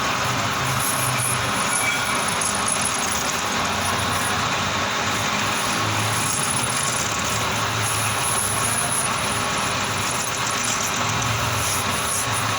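Manual metal lathe running steadily, turning a stainless steel plate, with a faint high thin tone coming and going over the even machine noise.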